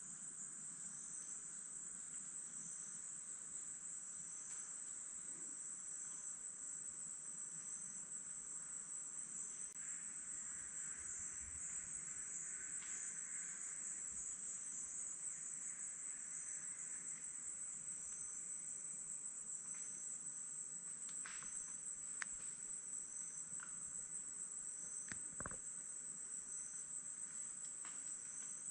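Insects calling in a steady high-pitched chorus, with a second call just below it that pulses about once a second. A few faint knocks come about three-quarters of the way through.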